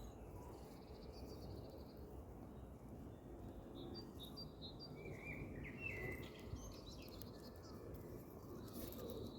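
Faint outdoor ambience of small birds chirping and singing, with a cluster of short chirps in the middle, over a low steady background noise.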